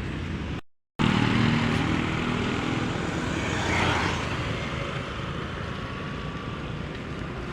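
Heavy rain with wind buffeting the microphone: a steady low rumble under a noisy hiss. The sound cuts out completely for a moment just under a second in, and there is a brief swell about four seconds in.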